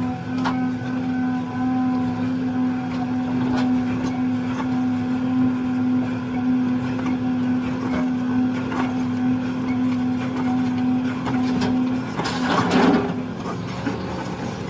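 A vehicle's engine held at steady high revs, working to free a vehicle stuck in mud. About twelve seconds in the steady note breaks off and a louder rush of noise takes over for a moment.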